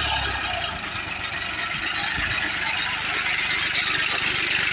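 Massey Ferguson 7250 DI tractor's diesel engine running steadily under a loud, even hiss.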